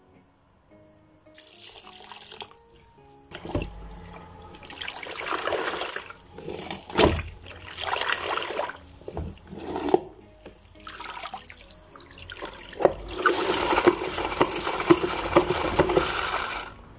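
Water running and splashing in irregular rushes of a second or two, with a longer, louder stretch near the end.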